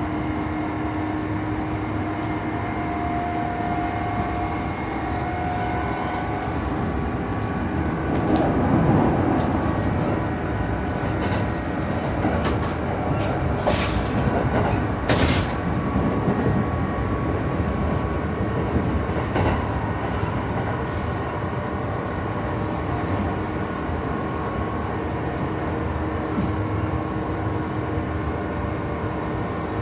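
Running noise inside a Kintetsu 2800 series motor car with Mitsubishi MB-3110A traction motors: a steady low motor and gear hum with several held tones over wheel rumble. This car's drive couplings make an unusual noise. Two sharp clacks of wheels over rail joints come near the middle.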